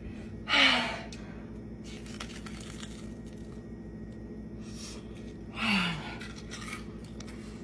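Two short breathy mouth sounds, about half a second in and again near six seconds, each ending in a brief falling voiced note, from someone eating noodles that are too spicy for her. They sit over a steady low electrical hum.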